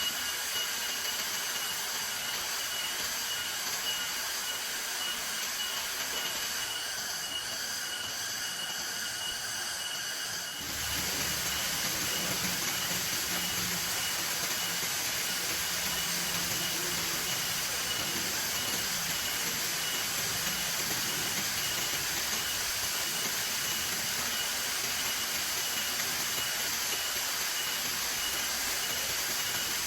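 Heavy rain falling, a steady hiss. About a third of the way in it turns abruptly fuller and deeper.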